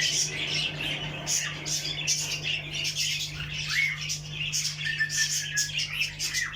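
A flock of caged canaries and budgerigars chirping, trilling and chattering over one another in quick, overlapping calls, over a steady low hum.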